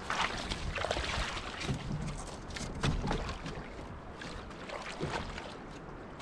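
Light, irregular knocks and scrapes on a loaded canoe's hull as a dog clambers aboard while it is held against the bank, with rustling of dry grass.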